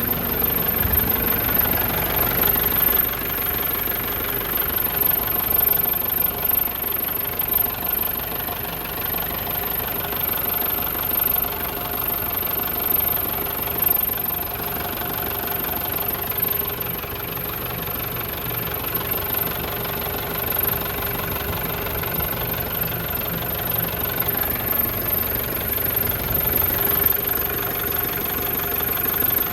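Nissan ED30 diesel engine of a Nissan Caball C240 dump truck running steadily, with no revving.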